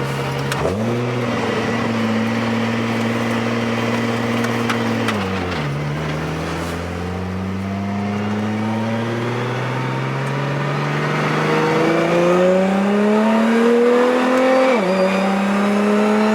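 Car engine heard from inside the cabin. Revs jump up about half a second in and are held high for several seconds, then fall away. Revs then climb steadily through a long pull, dip sharply about 15 s in as a gear changes, and are held again.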